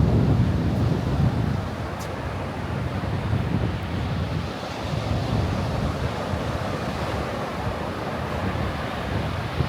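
Strong gusting wind rushing and buffeting the microphone, with a heavy low rumble that eases after the first second or so.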